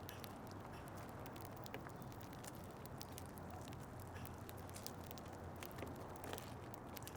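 Birds pecking seed at a feeder: many faint, irregular ticks and taps, over a low steady hum.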